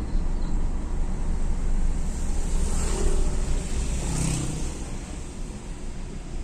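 Road traffic: two vehicles pass, about three and four seconds in, over a steady low rumble.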